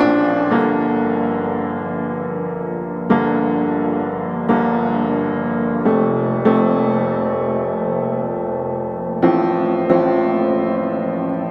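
Background piano music: slow sustained chords, a new one struck every second or two.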